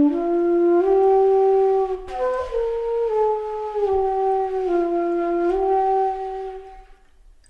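Background music: a solo flute-like melody in slow, held notes that stops near the end.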